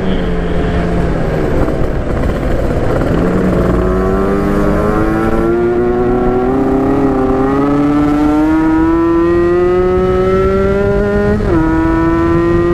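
Yamaha RX-King two-stroke single accelerating on the road, its revs climbing steadily for several seconds, then falling sharply near the end at a gear change and holding steady. A low wind rumble runs underneath.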